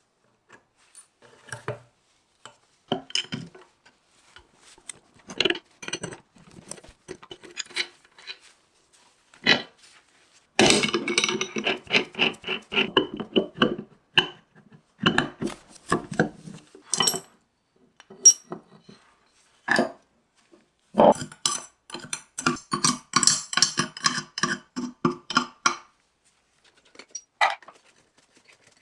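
Small metal parts and hand tools clinking and knocking, with two longer runs of quick, rattling clicks: one about ten seconds in and one a little past twenty seconds.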